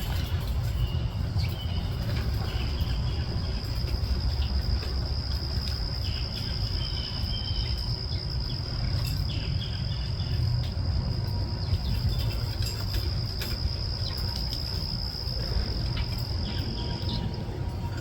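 An insect's steady, high, unbroken trill starts about a second in and stops shortly before the end. Short bird chirps are scattered through it, over a constant low rumble.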